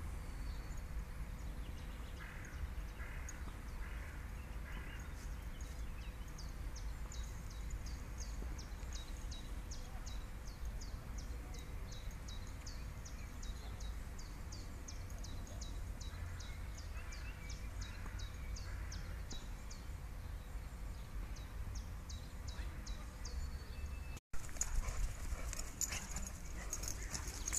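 Outdoor ambience: a bird repeats short high chirps, two or three a second, over a steady low rumble. After a cut near the end there is louder close sound of two dogs play-wrestling on grass.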